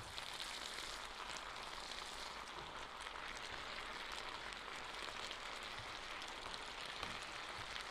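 Pasta stir fry with vegetables and sauce sizzling steadily in an electric skillet, with light scrapes of the serving spoon as it is stirred.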